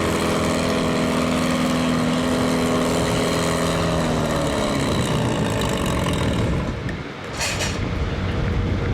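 Farm stock pulling tractor's engine running hard at a steady pitch under load, then letting off about halfway through as the pull ends and the sound turns rough and uneven. A short sharp hiss comes near the end.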